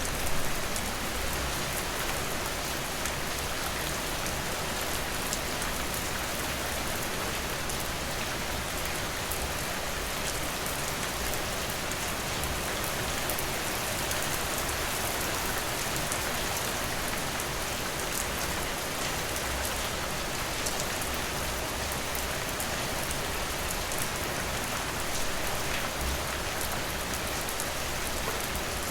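Steady rain falling, a constant hiss with many fine drop ticks, briefly louder right at the start.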